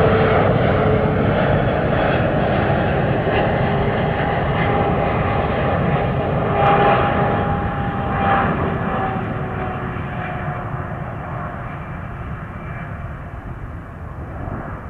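Jet engines of a Boeing 777-300ER (GE90s) running with a dense rumble and a high whine whose pitch slides slowly lower, the whole sound fading gradually.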